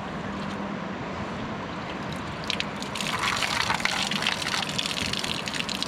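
Moving water: a steady rush, with close splashing and dripping water joining about halfway through.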